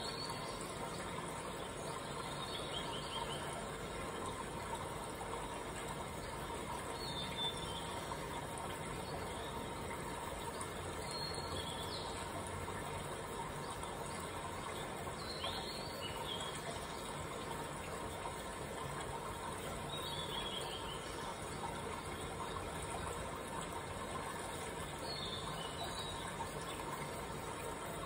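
Steady background hiss, with a bird giving a short high falling chirp call about every four seconds.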